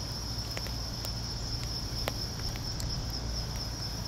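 Steady high-pitched chorus of insects, crickets by their sound, running without a break, with a few faint clicks and a low steady hum underneath.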